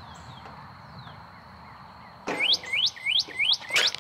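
A songbird singing a quick run of about six rising whistled notes, about three a second, starting a little past halfway. Before it, a faint steady high-pitched whine.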